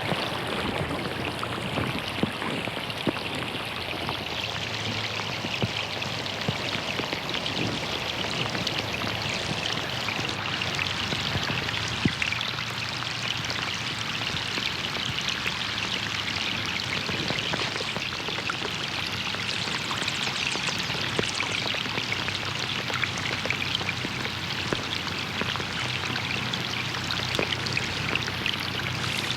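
Rain falling on a pond: a steady hiss of water, dotted with many sharp individual drop splashes.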